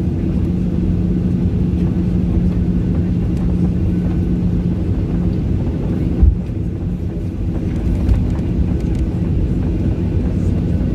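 Steady low rumble and hum inside the cabin of a Boeing 737-800 on the ground, its engines running, with a single low thump about six seconds in.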